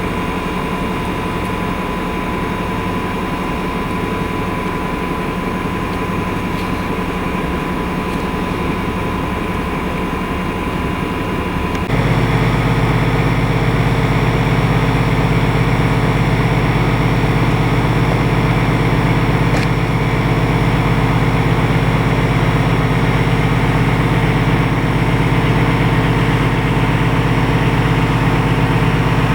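Heavy locomotive running steadily at a standstill: a constant low hum with steady tones. About twelve seconds in, the sound abruptly becomes louder with a stronger, deeper hum.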